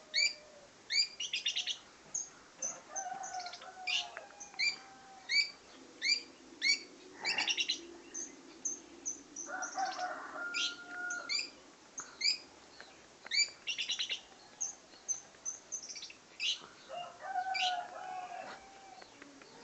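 Condet (cendet, the long-tailed shrike) singing: a steady run of sharp, repeated chirps and short fast trills, with lower warbled phrases at times.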